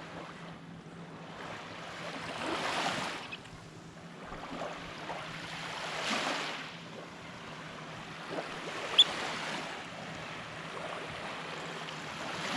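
Small waves breaking and washing up the beach, the noise swelling and fading every three or four seconds. About nine seconds in comes a brief, sharp, high-pitched chirp.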